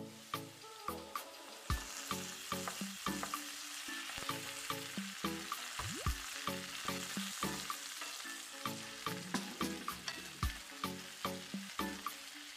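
Diced potatoes sizzling as they fry in olive oil in a non-stick pan, the sizzle swelling about two seconds in once the glass lid is off. A wooden spoon stirs them, with frequent short knocks and scrapes against the pan.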